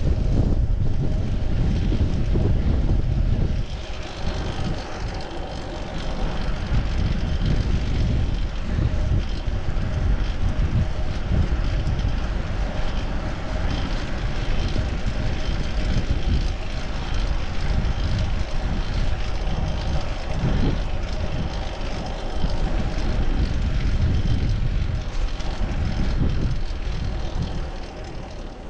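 Wind buffeting the microphone of a chest-mounted action camera on a moving bicycle, a heavy low rumble, with steady vehicle noise of traffic under it; the rumble eases briefly about four seconds in.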